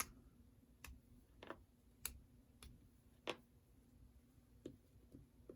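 Faint, irregular small clicks and taps from an HO-scale model locomotive's truck being handled as its wheel axles are popped out, about nine in all.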